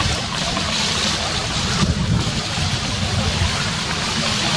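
Distant fireworks display: a continuous low rumble of far-off bursts under a steady hiss, with no single sharp bang standing out.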